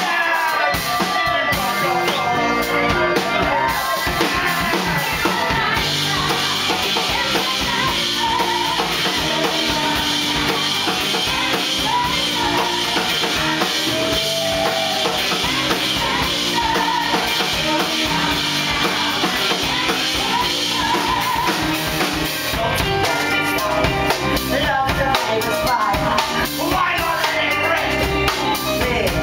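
Live band music with a driving drum kit (bass drum and snare) under ensemble singing, an up-tempo show number.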